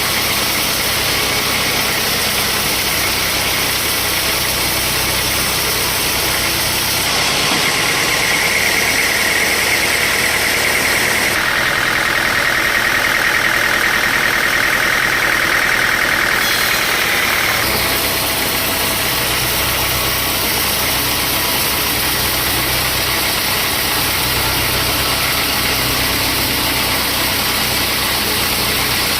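Sawmill saw running steadily. For about ten seconds in the middle, a higher, slightly louder sound takes over as the blade cuts through the wood, then it settles back to the earlier running sound.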